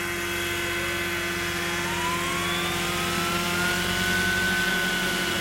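Radio-controlled Jet Ranger model helicopter spooling up: a steady mechanical drone with a whine that rises in pitch over a couple of seconds, then levels off at speed.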